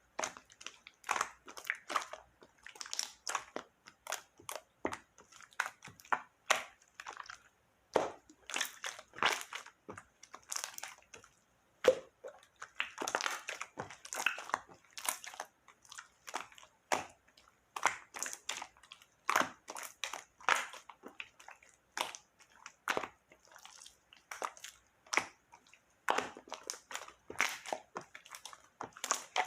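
Slime being squished and kneaded by hand, giving an irregular stream of sticky clicks and crackles.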